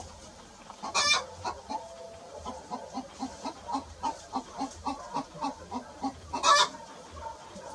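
Chickens clucking in a steady run of short clucks, a few a second, broken twice by a loud, short squawk: once about a second in and once near the end.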